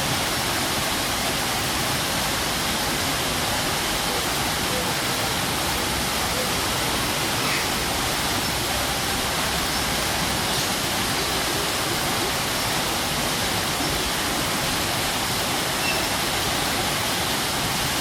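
Strong waterfall: a steady, dense rush of falling water.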